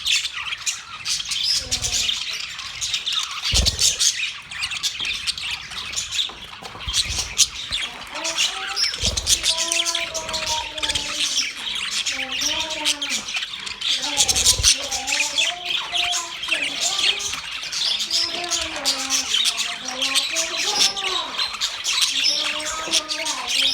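Many small cage birds chirping and chattering together in a continuous high twittering. From about a third of the way in, lower, curving calls join, along with a few dull thumps.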